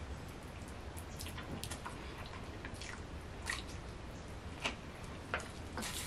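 Faint, scattered wet mouth clicks and smacks of people chewing food and drinking soda from a plastic bottle, over a steady low hum.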